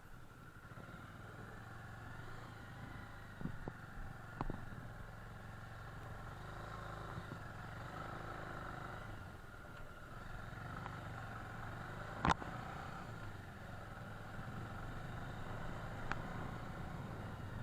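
Motorcycle engine running steadily while riding, with road and wind noise. A sharp click about twelve seconds in.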